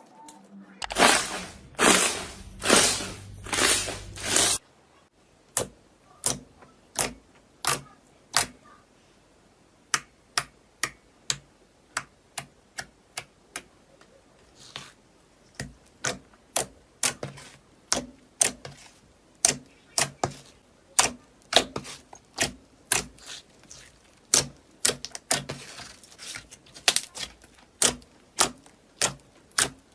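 Crisp crunching from something brittle being crushed by hand: four heavier crunches in the first few seconds, then a long run of sharp, separate cracks and clicks, about two a second.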